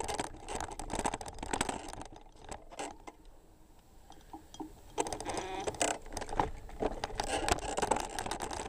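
Clattering and rattling of a bicycle and its mounted camera jolting over a rough trail. It eases to a quieter stretch about two and a half seconds in, then starts up again at about five seconds.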